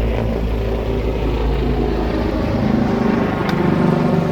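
An aircraft overhead, taken for a helicopter, with a steady low engine and rotor drone throughout. A single sharp click about three and a half seconds in.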